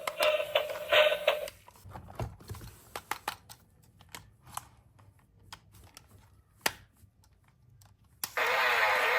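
Toy cars being handled: irregular light clicks and taps on hard surfaces, a few per second and uneven. Electronic music plays for the first second and a half and comes back loudly near the end.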